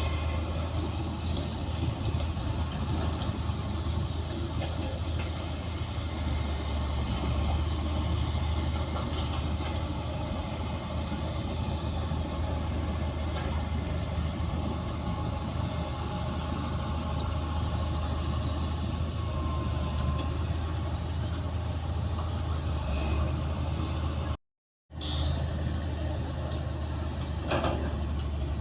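Komatsu D60P bulldozer's diesel engine running steadily with a deep, even rumble. It cuts to silence for about half a second near the end, then returns with a few sharp metallic clanks.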